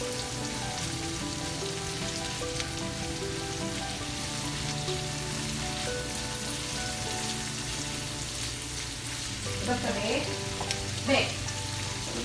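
Food sizzling steadily as it is sautéed in a frying pan for pansit, with stirring.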